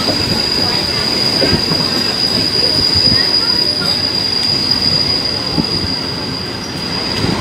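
Passenger train carriage rolling along the track, heard from an open window: a steady rumble of wheels on rail with a continuous high-pitched wheel squeal that cuts off near the end.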